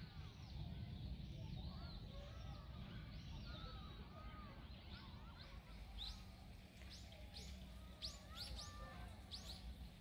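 Small birds chirping: short, sharp, high calls, quicker and more frequent in the second half, with softer lower calls among them over a low rumble.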